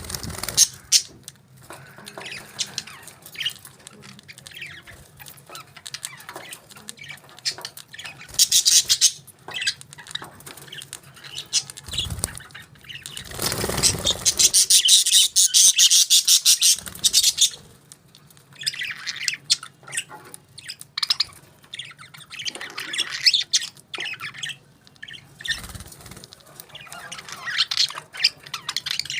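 Pet parakeets chirping and squawking in short scattered calls, with a louder, harsh, rapidly pulsing stretch of a few seconds about halfway through.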